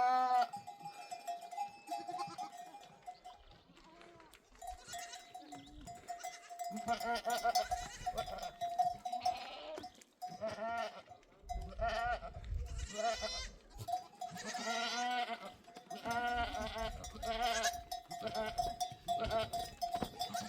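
A flock of sheep and goats bleating, call after call, over a livestock bell ringing steadily.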